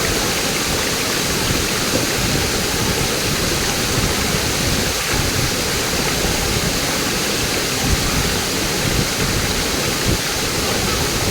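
Waterfall's water rushing in a steady, loud roar of white noise, without let-up.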